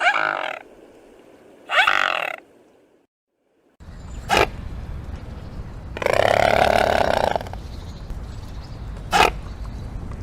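Animal calls: two short pitched calls, a brief silence, then a different recording with a short sharp call, a longer call of about a second and a half near the middle, and another short sharp call near the end.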